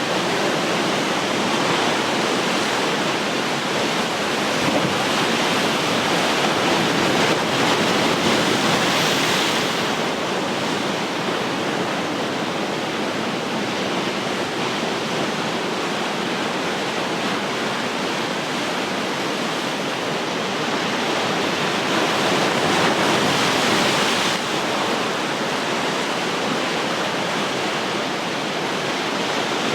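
Ocean surf: a continuous rush of waves breaking and washing up the shore, swelling twice, about eight seconds in and again about twenty-three seconds in, each time falling away quickly.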